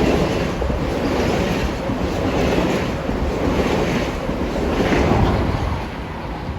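Electric commuter train running past, a steady rush with a swell about once a second, with wind buffeting the microphone.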